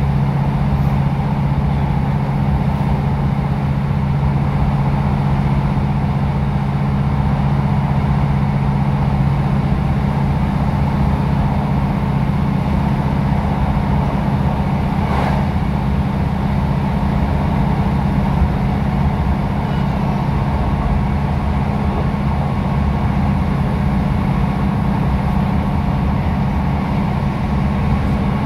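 Steady running noise of a passenger train heard from inside the carriage: a constant low drone with rumbling noise, unchanging in level.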